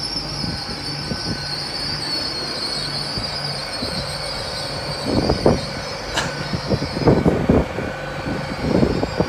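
GWR Class 800 IET train drawing into the platform. A steady high-pitched squeal from the train fades out about halfway through, over a low pulsing hum from the train.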